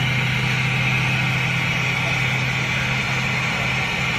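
Steady engine drone with a constant hiss over it, easing off slightly.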